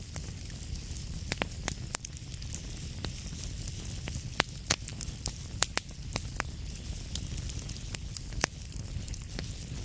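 Wood fire in a fireplace crackling, with frequent sharp, irregular pops and snaps over a steady low rumble and soft hiss of the flames.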